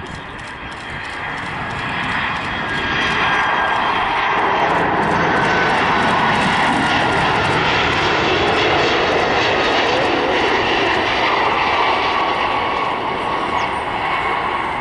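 Boeing 767-300F cargo jet's engines as it comes in to land, a steady jet rumble and whine that grows loud from about two seconds in, holds, and eases off near the end as the aircraft passes.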